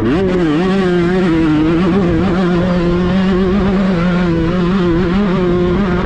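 Kawasaki Ninja two-stroke single-cylinder engine, prepared for grasstrack, revved up sharply at the start and then held at high revs with small wavers in pitch.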